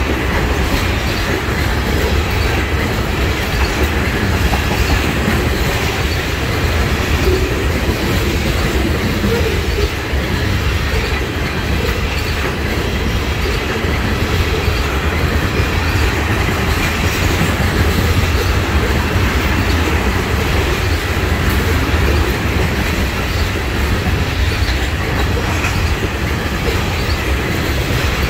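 Railroad tank cars of an oil train rolling past: a steady rumble of steel wheels on the rails, heaviest in the low end.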